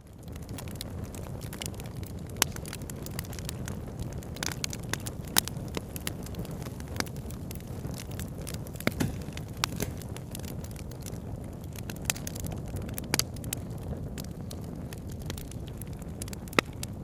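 Wood campfire crackling, with frequent sharp irregular pops and snaps, over a river's steady low rushing.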